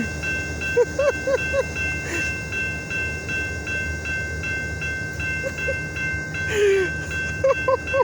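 Diesel locomotive running at a steady idle, a continuous low rumble with a steady high-pitched tone over it. Short chirps, typical of small birds, come in clusters about a second in and again near the end.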